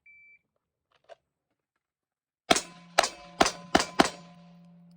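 Five rapid pistol shots from a Glock 45, spaced across about a second and a half, with a metallic ringing that lingers after them. A short high beep sounds before the shots.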